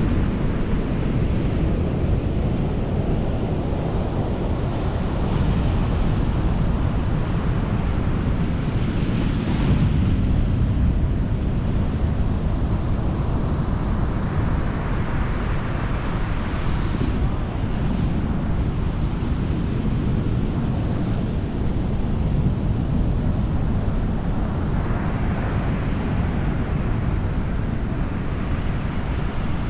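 Atlantic surf breaking and washing up the beach, its hiss swelling and fading every several seconds, with wind buffeting the microphone as a steady low rumble.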